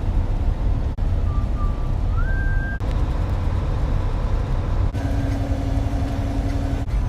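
Steady low road and engine rumble of a moving truck, heard from inside the cab. It breaks off abruptly every couple of seconds as one short clip cuts to the next, and a steady tone sounds over it for a couple of seconds near the end.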